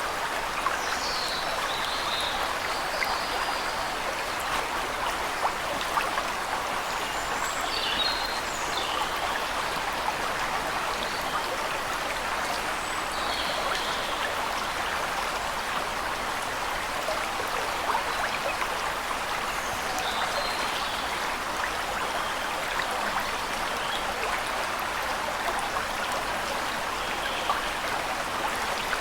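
Waterfall rushing steadily, with birds giving short high chirps every few seconds.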